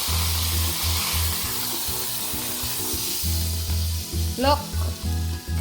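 Steak sizzling on the hot grill plate of a Ninja Foodi Smart Grill. The sizzle thins out after about three seconds.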